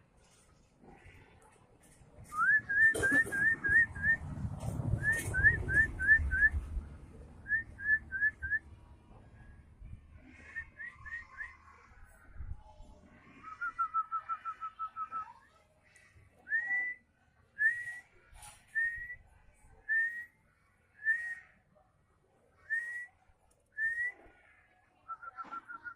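White-rumped shama (murai batu) whistling clear rising notes, first in quick runs of four or five, then a fast trill, then single upslurred whistles about once a second. A low rumbling noise sits under the first runs.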